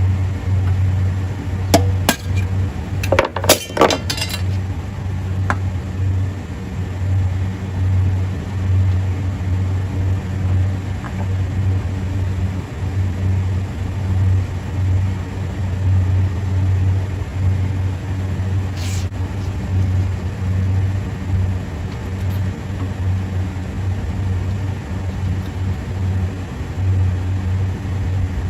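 A steady low machine hum with a wavering level, with a handful of sharp metallic clinks and knocks in the first few seconds and one more clink about two-thirds of the way through, as of metal compressor parts or tools being handled.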